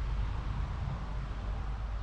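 Claas Arion 660's 6.8-litre six-cylinder diesel engine running steadily.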